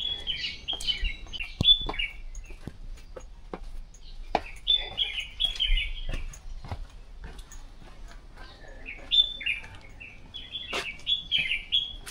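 Songbirds chirping in three spells of quick, high phrases, with a few sharp taps between them.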